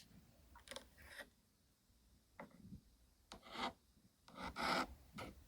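Slime being handled, heard as a few faint, short rubbing strokes, the louder two about three and a half and four and a half seconds in.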